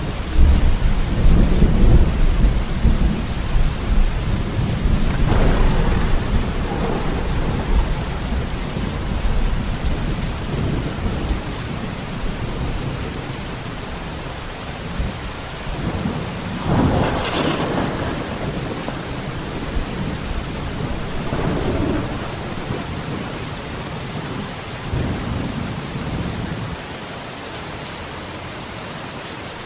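Heavy rain falling steadily in a forest, with rolling thunder: a long low rumble through the first several seconds, a sharper thunderclap about 17 seconds in, and smaller rumbles after it.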